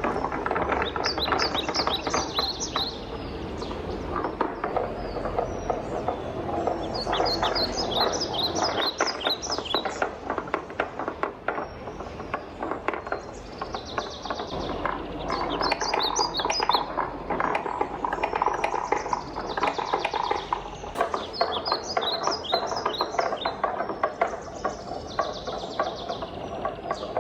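Wooden balls rolling and clattering down a wooden marble run: a continuous rattle of small knocks, with quick clusters of higher, brighter clicks every few seconds.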